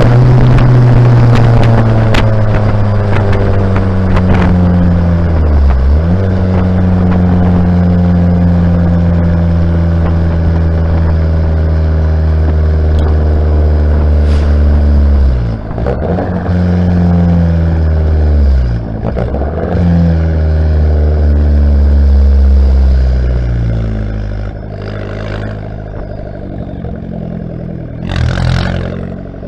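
Fiat Bravo T-Jet's 1.4 turbo four-cylinder exhaust, recorded from outside the car, running at steady revs under load. Revs dip briefly and pick up again three times, then fall to a quieter, lower note about two-thirds of the way in, with a short burst near the end.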